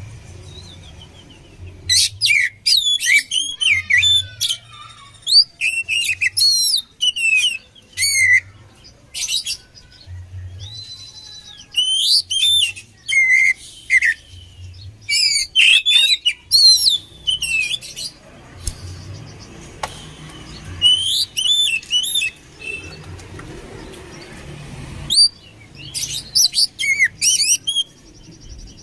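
Oriental magpie-robin (kacer) singing in repeated bouts of fast, varied, high whistled and chattering phrases, with short pauses between them.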